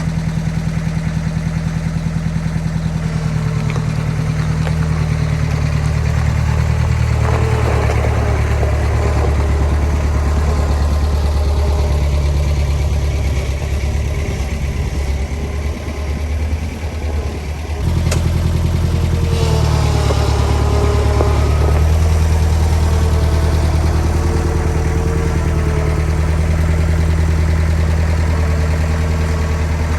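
Engine idling steadily, its sound changing abruptly about 18 seconds in.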